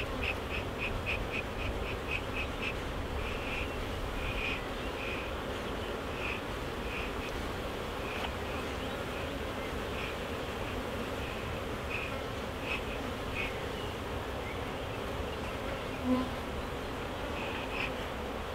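Honeybees buzzing over an open hive as a bee smoker is puffed over the frames to drive them down into the hive. The puffs come quickly and evenly, about three a second, for the first few seconds, then only now and then.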